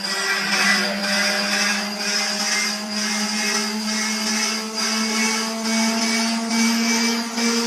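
Aircraft turbine engine whining steadily at high speed, its pitch creeping slowly upward as it spools up, with a regular pulsing in the high whine.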